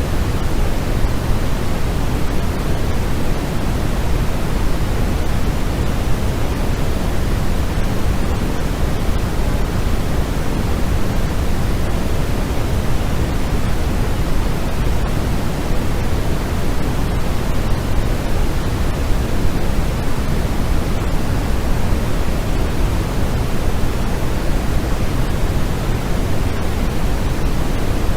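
Continuous white-noise sleep track: an unbroken, even hiss that is fuller and deeper in the low end than a flat hiss, with no change in level.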